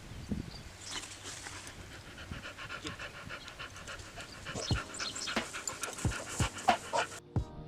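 A dog panting rapidly, with several sharp clicks or knocks over the second half that are louder than the panting.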